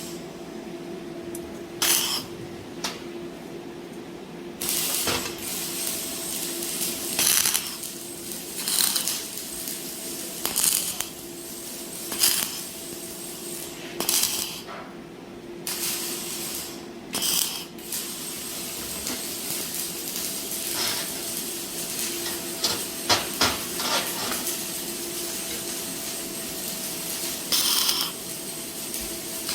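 Steel plate parts knocking and clinking against each other as they are handled, a sharp metallic hit every second or few, over a steady machine hum.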